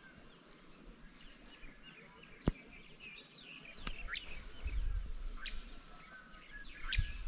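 Small birds chirping in short, high calls, with one sharp click about two and a half seconds in and a low rumble coming in from about four seconds in.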